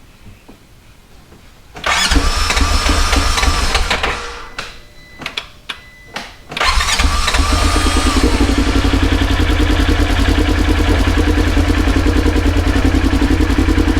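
Polaris Ranger 900 XP twin-cylinder engine started with freshly installed fuel injectors: about two seconds in it fires and runs for a couple of seconds, stumbles out with a few brief coughs, then starts again about six and a half seconds in and settles into a steady idle. One injector is not seated right and is leaking fuel, as the owner finds just after.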